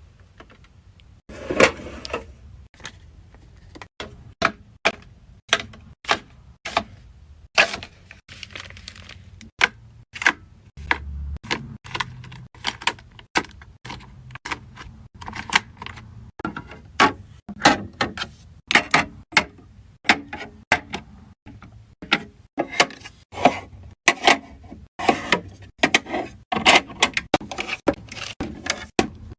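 Skincare bottles, jars and tubes being handled and set down one after another while a skincare fridge is restocked: a long run of irregular sharp clicks and clacks of plastic and glass, with short rustles and a dull thump about eleven seconds in.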